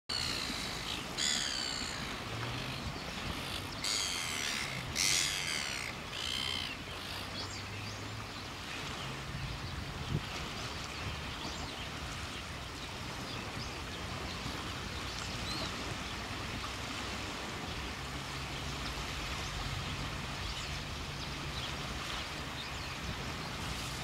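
Several high, chirping bird calls in the first six seconds, two close together around four to five seconds in, over a steady outdoor background hiss. A faint low hum comes and goes, and there is a single knock about ten seconds in.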